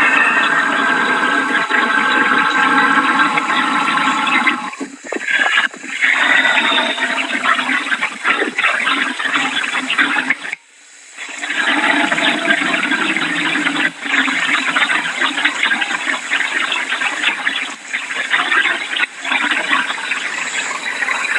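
Hurricane wind and heavy rain: a loud, steady rushing noise, with a held whistling tone in the first few seconds and a brief lull about ten seconds in.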